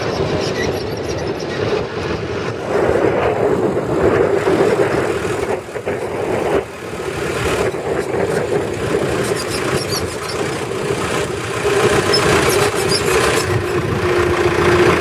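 Mahindra Arjun tractor engine running steadily, with a short dip in loudness about six seconds in.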